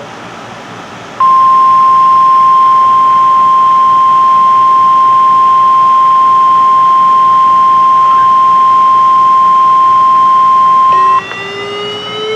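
Weatheradio Canada warning alarm tone: one steady, high beep near 1 kHz held for about ten seconds over faint radio hiss. It starts about a second in and signals that a weather warning bulletin follows. As it cuts off, a lower tone with overtones begins and slowly rises in pitch.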